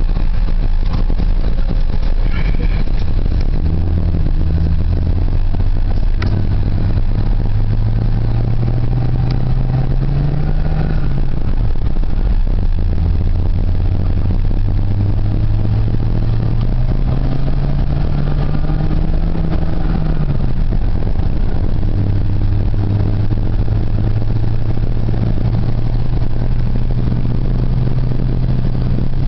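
1990 Ford F-150's 4.9-litre straight-six engine pulling the truck up through the gears, heard from inside the cab over a steady low road rumble. The engine note rises steadily, falls at a gear change about eleven seconds in, rises again, falls at a second shift around twenty seconds, then holds steady.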